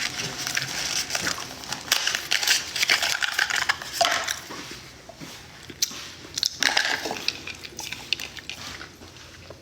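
Breakfast eating: dishes and cutlery clinking in irregular short clicks, busier in the first half and thinning out later.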